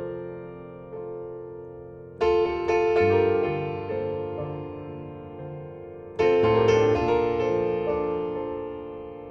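Background piano music: slow, gentle chords struck about two seconds in and again about six seconds in, each left to ring and fade.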